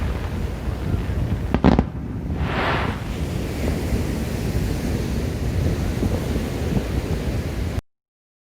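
A single firework burst bangs sharply about two seconds in, followed by a short hiss, over steady wind noise on the microphone and surf. The sound cuts off abruptly near the end.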